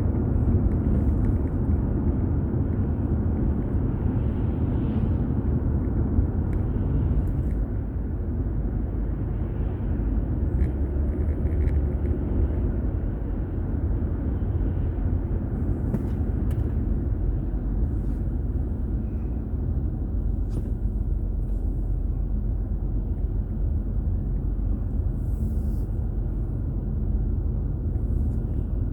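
Steady low rumble of a car's road and engine noise heard from inside the moving car, with a few faint clicks.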